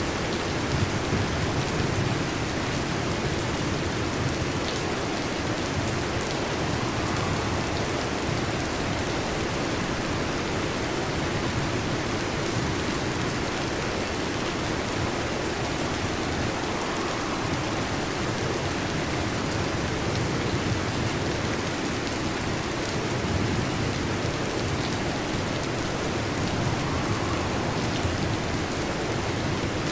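Heavy rain falling steadily on a metal roof, a dense even hiss with scattered sharper drop ticks.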